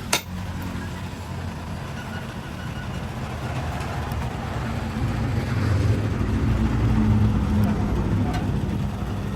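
An engine running steadily with a low rumble, growing louder about five seconds in, after a single sharp click at the start.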